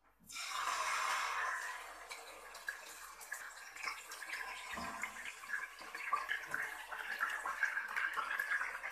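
Marinated chicken sizzling as it goes into hot oil in a pot. A burst of hissing just after the start, loudest over the first second or so, then settles into steady crackling frying with small clicks.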